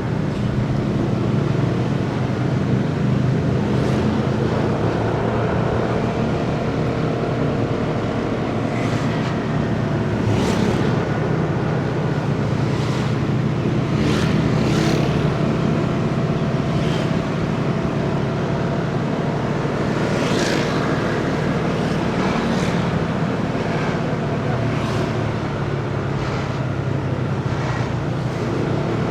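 Motorcycle engine running steadily under way, with road and traffic noise. About a dozen brief hissing swishes come and go throughout.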